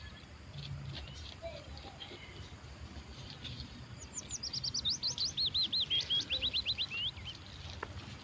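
A songbird singing a quick series of looping, whistled notes that step down in pitch as they go, starting about halfway through and lasting about three seconds.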